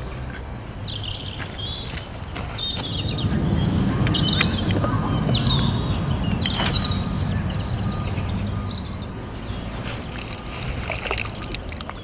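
Small birds chirping and singing in short calls and trills, over a low rumbling noise that swells about three seconds in and fades near the end.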